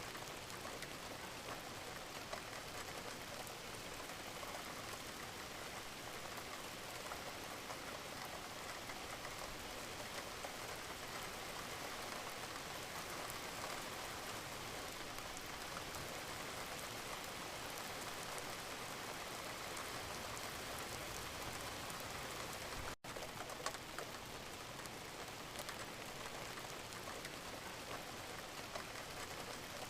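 Steady gentle rain falling, an even hiss flecked with the patter of individual drops. About two-thirds of the way through it cuts out for a split second before carrying on.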